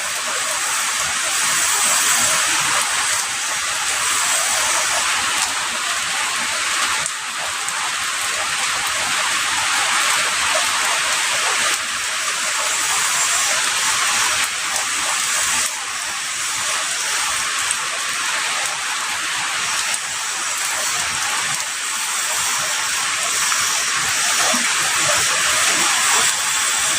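Heavy rain falling steadily: a dense, even hiss, strongest in the upper range, with small shifts in loudness every few seconds.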